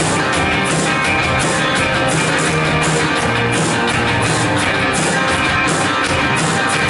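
Live worship band playing an instrumental passage with electric guitar, drums and a steady beat of cymbal hits.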